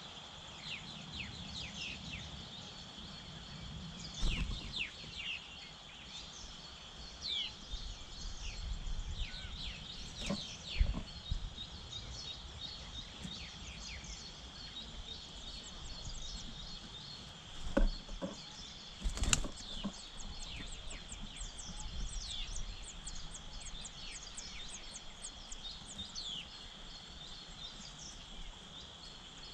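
Small birds chirping: many short, falling chirps, coming faster, several a second, in the last third, over a steady high-pitched drone. A few sharp thumps stand out above the chirping.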